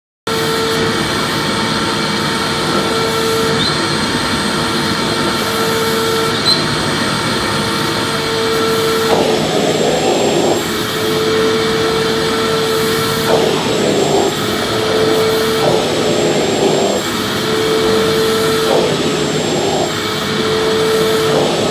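Vacuum cleaner running steadily, starting abruptly just after the start. A whining tone comes and goes throughout, with several spells of rougher rushing noise in the second half.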